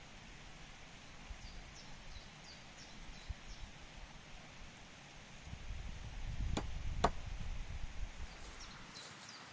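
Small birds chirping faintly in short, high, descending notes, twice in clusters. About six and a half seconds in, a low rumbling handling noise rises, with two sharp knocks half a second apart.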